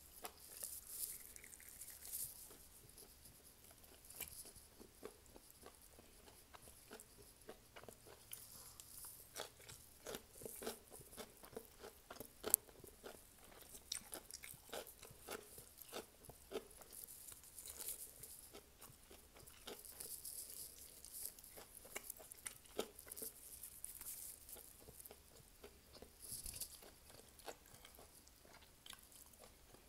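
Quiet, close-up chewing and crunching of fried chicken wings, with many small, sharp clicks and one sharper click about halfway through.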